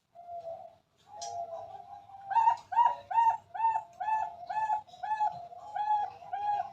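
A dove cooing. It gives a few drawn-out notes, then from about two seconds in a quick, even run of short, clipped coos, about two to three a second.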